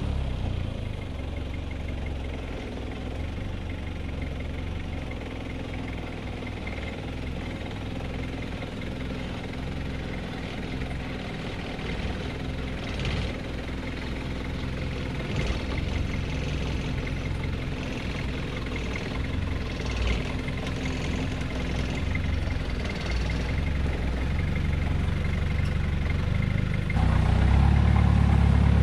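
Toyota Hilux's 3.0 turbo diesel engine running at low revs with a diesel knock, and a few short clunks partway through. It gets noticeably louder near the end.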